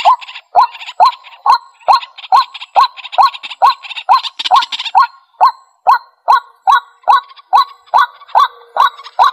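White-breasted waterhen calling: a loud, rising 'kwak' note a little over twice a second, with a faster rattling chatter between the notes through the first half that fades and returns near the end.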